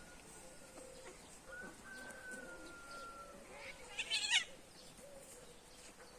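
Cat giving a short, harsh cry about four seconds in, with a few fainter wavering calls around it, over a faint steady hum.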